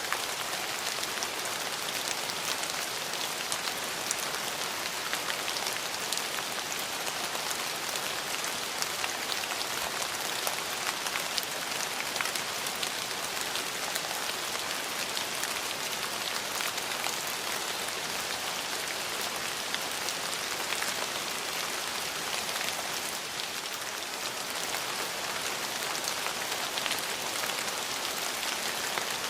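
Steady rain falling, with the close patter of many individual drops hitting a surface.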